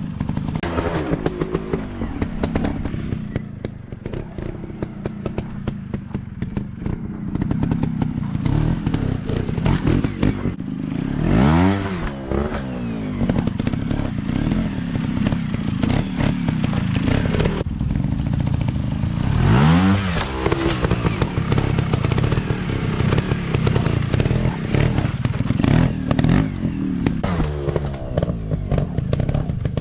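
Small dirt bike engines running and revving, with sharp rises in engine pitch about a third of the way in and again about two-thirds in, amid clattering and thumps.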